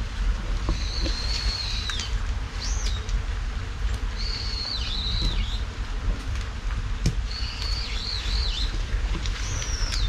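A small bird calling, several high whistled phrases a few seconds apart, some warbling and some gliding down at the end, over a steady low rumble.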